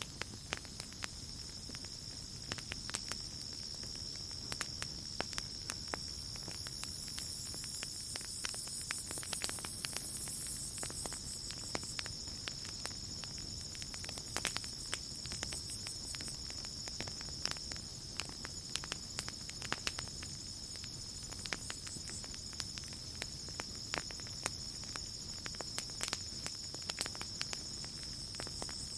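Campfire crackling, with irregular sharp pops and snaps over a low rumble of the flames, against a steady high chirring of night insects.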